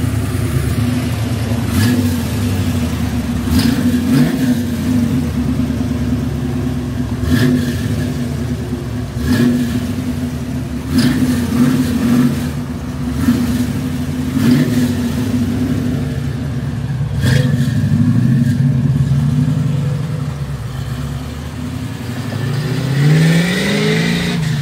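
A car engine running at a steady, loud rumble, with occasional sharp clicks, then revving up near the end.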